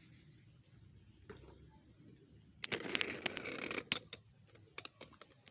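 A rustling, crackling burst lasting about a second, about halfway through, followed by a few scattered sharp clicks.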